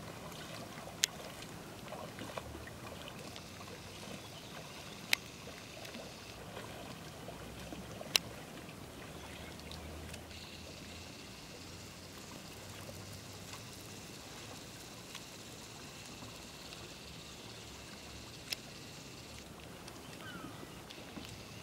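Faint water trickling and lapping, with four sharp clicks scattered through it.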